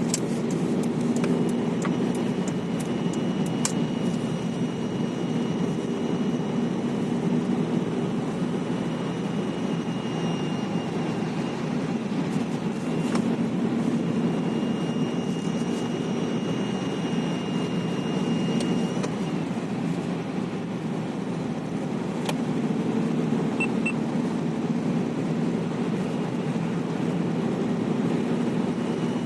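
Opel Zafira A's 1.8-litre Z18XE four-cylinder petrol engine running steadily, with a thin high-pitched whistle over it that comes and goes, lasting several seconds each time. The whistle's cause is unknown.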